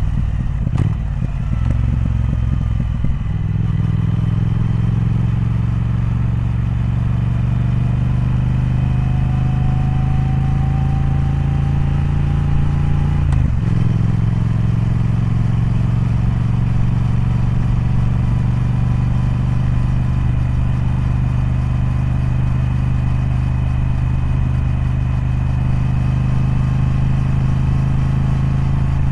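Triumph Speed Twin's parallel-twin engine running steadily under way, its note rising slowly and then dropping off briefly about halfway through, as at a gear change.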